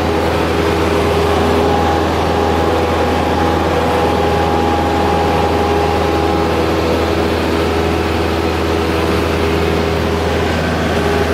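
Light aircraft's piston engine and propeller running at a steady drone, with a strong low hum and several steady tones held throughout.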